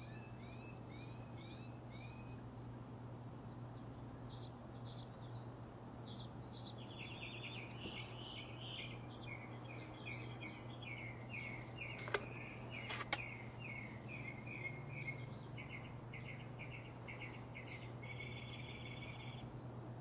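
Songbirds singing: a few quick chirps at the start, then a long run of rapid repeated notes from about a third of the way in, ending in a short trill. Two sharp clicks about a second apart near the middle, over a steady low hum.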